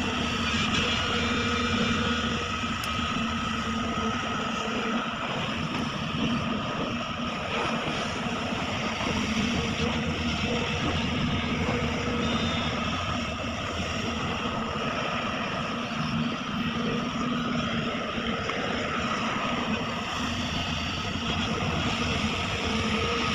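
Sumitomo SH350 hydraulic excavator's diesel engine running steadily, with a high steady whine over the engine.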